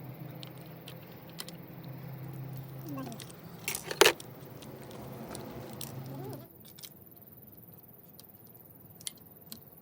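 Small metal tools and engine parts clinking and rattling as they are handled, with one louder metallic knock about four seconds in. A steady low hum runs underneath and cuts off about six and a half seconds in.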